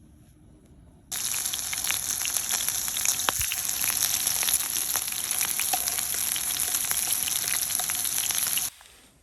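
Food frying in a hot pan, a dense sizzle full of small crackles and pops. It starts suddenly about a second in and cuts off sharply near the end.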